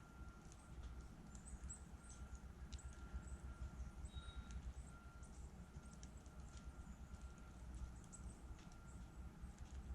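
Wood campfire crackling faintly: scattered small pops and snaps at irregular intervals over a low steady rumble.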